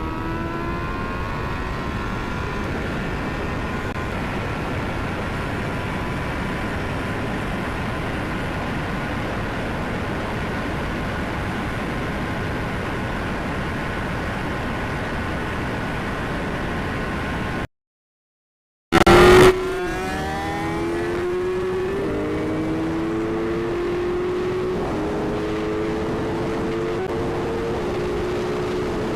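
Inline-four superbike engines (Suzuki Hayabusa and Kawasaki ZX-10R) at high speed under heavy wind noise on the microphone, the engine note climbing at first and then holding steady. After a short cut to silence about 18 seconds in, a loud burst and a falling engine note lead into a lower, steadier engine note that shifts pitch in small steps.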